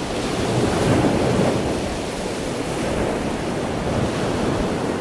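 Killer whales swimming and splashing at the surface of a pool: a steady rush of churning water, with wind on the microphone.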